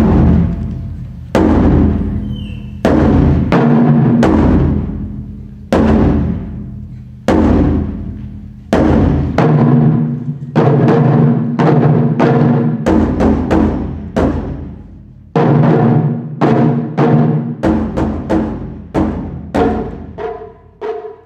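Japanese taiko drums struck in heavy beats, each one ringing out in a long low boom. The strikes come about every second and a half at first and grow quicker near the end.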